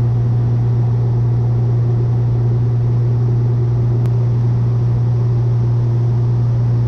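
Cessna 182's piston engine and propeller droning steadily in flight, heard from inside the cockpit as a constant low hum with a hiss above it.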